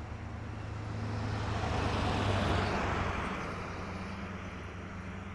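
A road vehicle passing by on the highway. Its noise builds to a peak about two and a half seconds in, then fades away.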